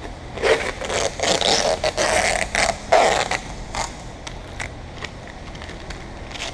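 Irregular scraping and rustling for about three seconds, then a few scattered clicks.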